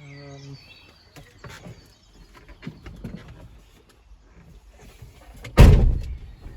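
Scattered light knocks and clicks, then one loud thump about five and a half seconds in, with birds chirping faintly in the background.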